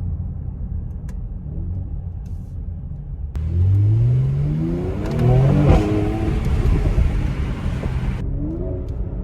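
Mercedes-AMG GLC 43's 3.0-litre twin-turbo V6 running with a low steady note, then a little over three seconds in accelerating hard: its pitch climbs in a series of rising sweeps as it pulls up through the gears, with a single sharp crack about halfway through. A rushing hiss comes in with the acceleration and cuts off suddenly near the end.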